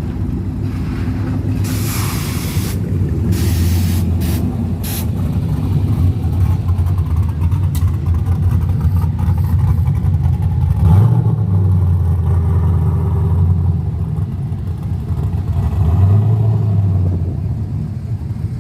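Car engine running with a steady low rumble, rising briefly about eleven seconds in and again about sixteen seconds in. Several short bursts of hiss come between about two and five seconds in.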